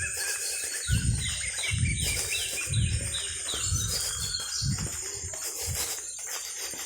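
A bird calling a quick run of about eight falling notes, lasting about two seconds, over a steady high-pitched hiss, with low thuds about once a second.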